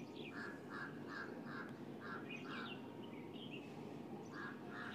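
Faint bird calls in the background: a run of short, evenly repeated calls at about two to three a second, with higher chirps over them. The calls pause midway and start again near the end.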